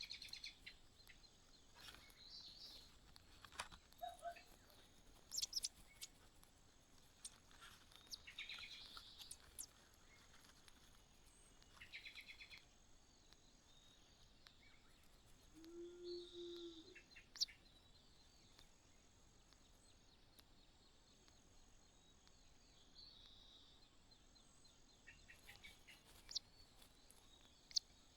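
Faint bird chirps and short calls, scattered throughout, with a quick run of rapid ticking notes about twelve seconds in.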